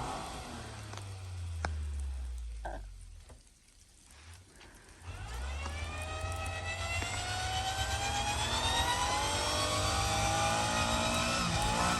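Suzuki Carry kei truck engine: its revs fall away, there is a brief lull with a few light clicks, and then about five seconds in the engine pulls away, its pitch climbing steadily and growing louder as it accelerates.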